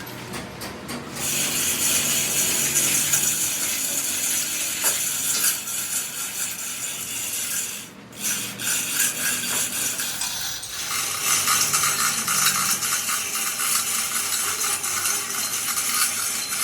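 Harsh, steady metalworking noise from a power tool on the steel gear. It starts about a second in, breaks off briefly around eight seconds, and comes back stronger near eleven seconds.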